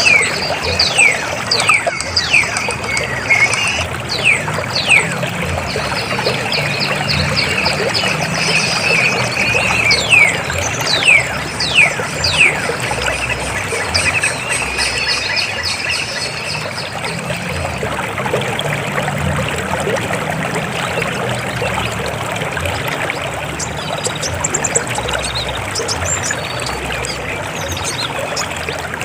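River water flowing steadily over rocks. Through the first twelve seconds or so, a bird gives a rapid series of high, quick falling calls over the water.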